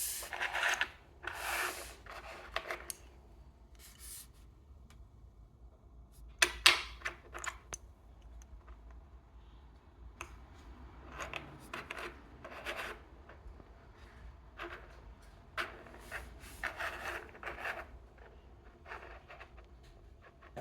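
Intermittent rubbing and scraping of hands handling a small toy and its box, with a few sharp clicks about six and a half seconds in.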